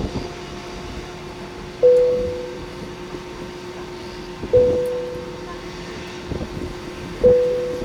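A single ringing tone, struck three times about two and a half seconds apart, each fading over about a second, over a steady low hum.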